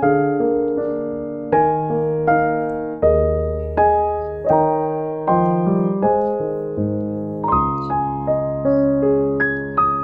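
Background piano music: a slow, gentle melody of single struck notes, each dying away before the next.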